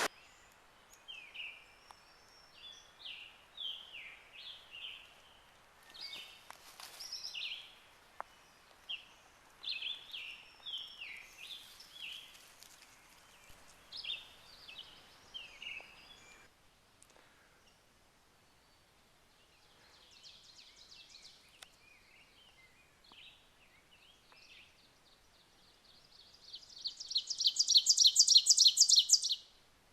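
Songbirds singing in woodland: a run of short, quick, high notes repeated in phrases, then a loud, fast, high trill lasting a few seconds near the end.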